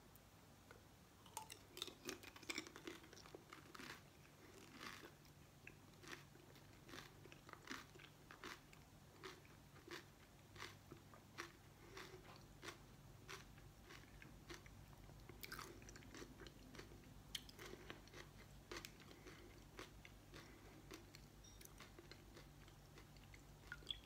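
A person biting and chewing pani puri: the crisp fried puri shells crunch quietly and sharply, about once or twice a second, thinning out in the second half.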